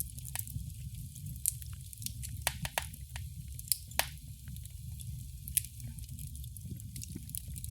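Wood fire crackling in a fireplace: a steady low rumble with irregular sharp pops and snaps, the loudest a quick cluster about two and a half seconds in and single pops around four and five and a half seconds in.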